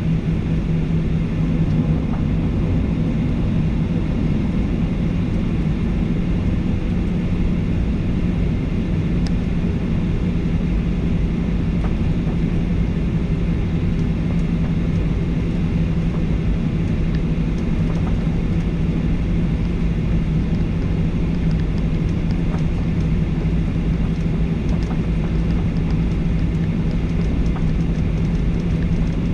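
Steady cabin drone inside a Boeing 737-800 airliner, its CFM56 turbofan engines running at a constant setting with a steady low hum over rushing noise.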